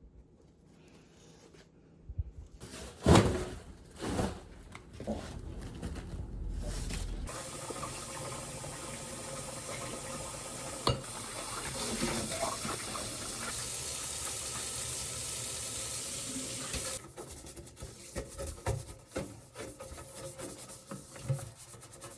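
Water running steadily, as from a tap into a sink, for about ten seconds and then shut off abruptly. A few sharp knocks and clatter come before it, and small clicks follow.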